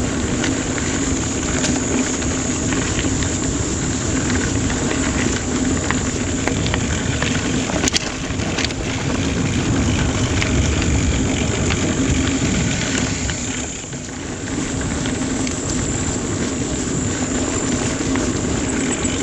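Mountain bike riding along a dirt singletrack trail: steady tyre and wind noise on the rider's camera, with scattered clicks and a sharp knock about eight seconds in.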